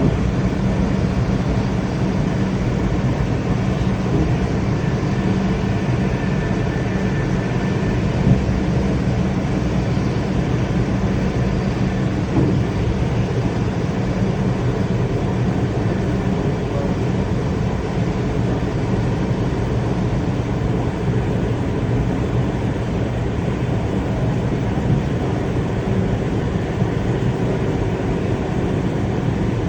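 Passenger train in motion: a steady running noise with a low hum, and a brief knock about eight seconds in and another about twelve seconds in.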